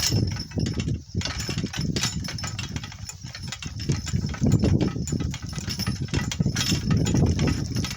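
Donkey cart rolling over rough, bumpy ground: an irregular clattering and jolting of the cart with a steady low rumble underneath.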